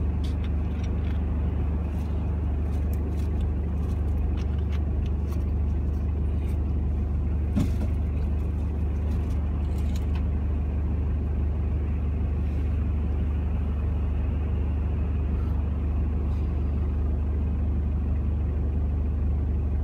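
Car engine idling, heard from inside the stopped car's cabin as a steady low drone. A few faint clicks come in the first half, and one short knock about eight seconds in.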